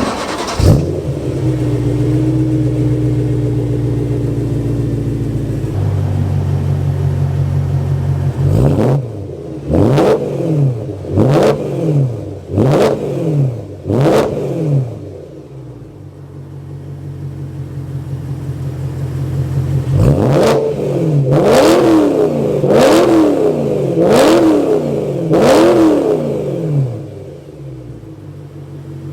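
BMW E92 M3's V8 with a muffler delete, idling and then blipped hard in two sets of about five quick revs, each climbing and falling back, before settling to idle again. The exhaust is loud.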